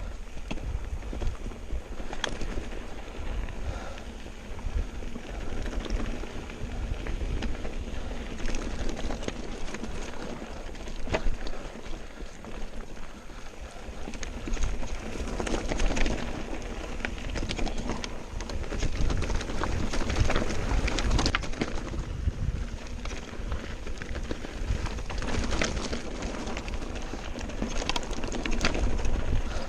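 Mountain bike descending a rough, rocky trail: tyres rolling and crunching over stones, with frequent clicks and knocks of the bike rattling over bumps and wind buffeting the microphone as a low rumble.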